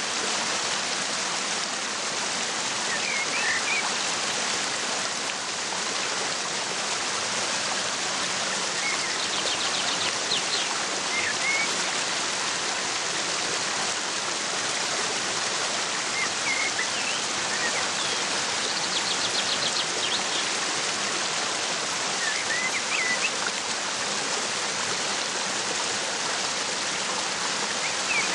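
Waterfall rushing steadily, with small birds chirping every few seconds and a quick high trill twice.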